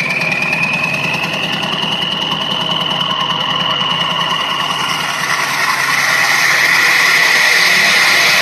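1999 Ford 7.3 Power Stroke V8 turbo-diesel running after a cold start, exhausting through a 4-inch stack, with a fast, even knock. A high whine rises slightly over the first few seconds and fades, and the engine gets louder about six seconds in.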